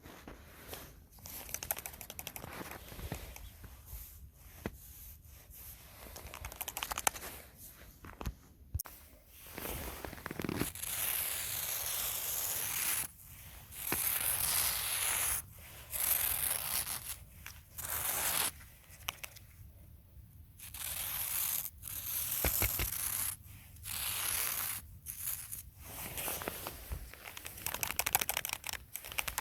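Material being handled up close with the hands: soft scratchy rustling at first, then from about nine seconds in, repeated loud bursts of crinkling, tearing-like rustle, each a second or two long with short pauses between.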